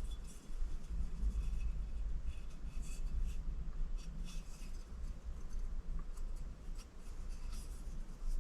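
Quiet scraping, rubbing and small clicks of hands and tools working on a small electric supercharger as it is taken apart.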